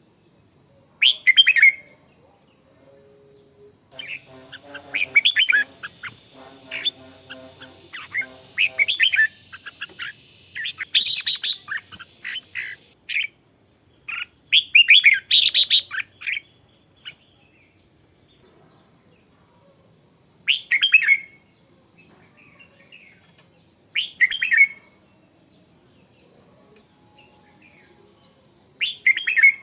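Red-whiskered bulbuls singing short, loud, chirpy phrases, thickest in a run of song a few seconds in, then single phrases spaced several seconds apart. A steady, thin high-pitched tone runs underneath most of the time.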